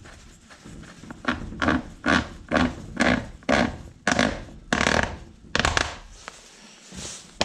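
A run of about ten short, even rubbing or scraping strokes, about two a second, from about a second in until near six seconds, then quieter handling.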